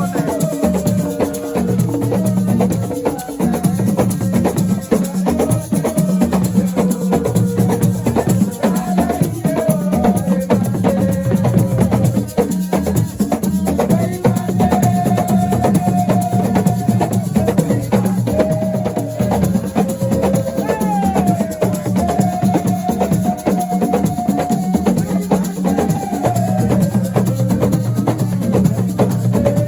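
Live assiko music: dense, fast hand percussion with shaker-like rattles over a steady bass, with a melody line that bends and holds above it.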